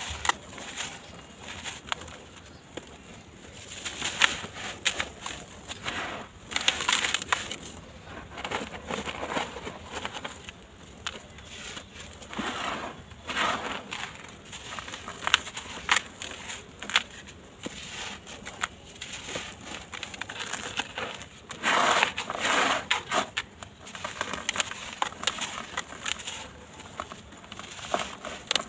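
Dry, gritty sand-cement blocks crunching and crumbling in a tub: irregular crackling crunches, with louder clusters of crumbling scattered through.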